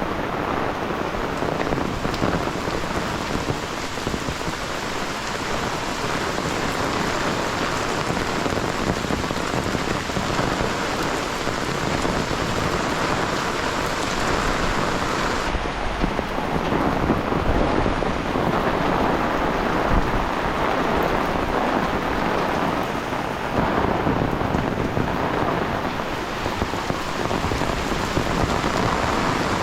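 Heavy rain falling steadily in a monsoon downpour, a dense, even hiss of drops with no letup.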